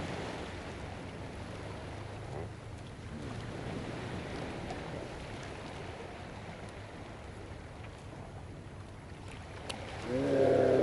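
Steady seaside ambience: waves washing at the shoreline and wind on the microphone, with a low steady hum underneath. A loud voice starts near the end.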